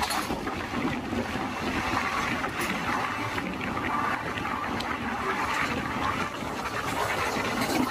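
Steady rush of running noise and wind from a moving Indian Railways passenger train, heard at an open coach door or window, with a few faint ticks from the wheels and track.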